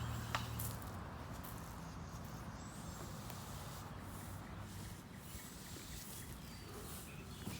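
Faint scratchy hiss of a concrete broom being dragged across the wet surface of a freshly poured driveway. A low hum dies away in the first second, and there is a single click shortly after the start.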